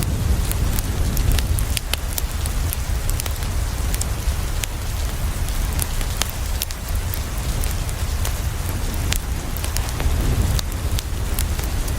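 Steady rain falling on a window, with a deep low rumble underneath and many scattered sharp ticks throughout.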